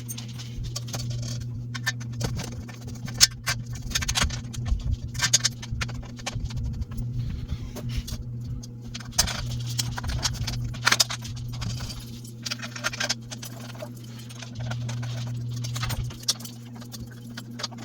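Metal bed-frame hardware clinking and rattling in irregular clicks and knocks as screw fasteners are fitted into the frame's main support rail, over a steady low hum.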